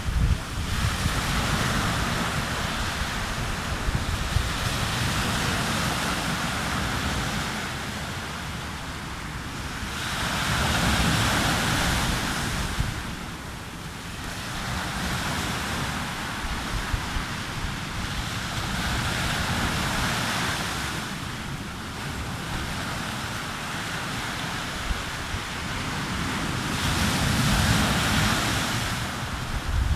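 Sea waves breaking and washing up a beach, the surf swelling and fading roughly every eight to nine seconds, with wind buffeting the microphone as a steady low rumble.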